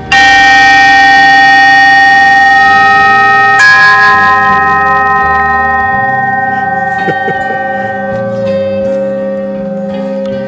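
Large hanging metal chime tube struck twice, about three and a half seconds apart. Each strike gives a loud, long ring of several steady overtones that slowly fades.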